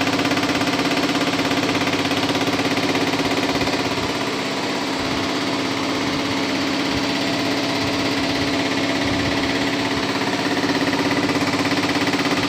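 EPS 205 diesel injector test bench running steadily as it tests a repaired Denso common-rail truck injector: a loud, even machine hum with a fast, fine pulsing.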